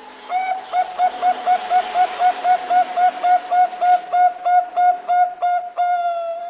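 Perkutut bangkok (zebra dove) giving a fast series of short cooing notes, about four a second, ending in one longer note that sags slightly in pitch.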